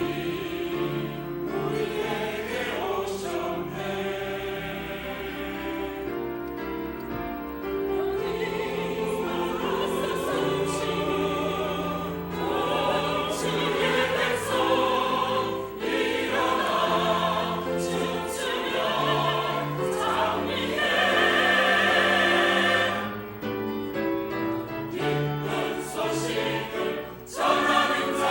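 Church choir singing an anthem in parts with musical accompaniment, sustained notes building louder through the second half.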